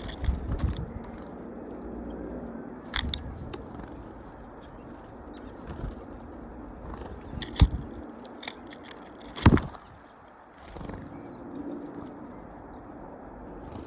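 Small birds at a feeder: wings fluttering as they land and take off, and sharp taps and pecks at the food, two of them loud about midway. A few faint high chirps are heard.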